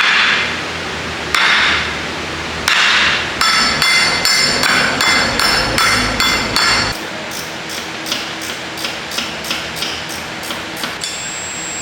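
Hammer driving a new pilot bearing into place with metal-on-metal blows. Three heavy strikes come about a second and a half apart, then a quick run of ringing metallic hits, then lighter, faster taps.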